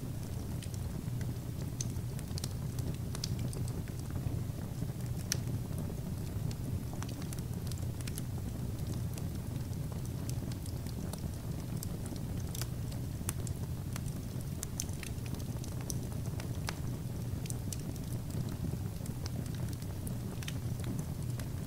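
Fire burning in a fireplace: a steady low rumble with irregular sharp crackles scattered throughout.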